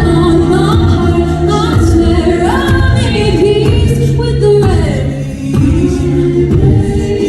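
Singing voices with music: held low notes under a gliding sung melody, with a choir-like, a cappella feel.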